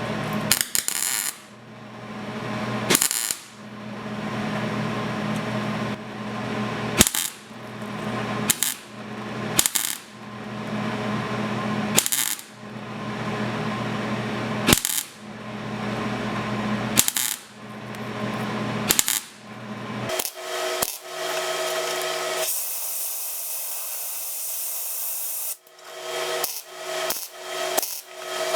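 Welder laying short stitch welds on a patch in thin car body sheet metal: about a dozen buzzing, crackling bursts of one to four seconds each, with brief pauses between them to keep the heat down. The bursts get shorter near the end, and in the middle of that run a steady hiss lasts about three seconds.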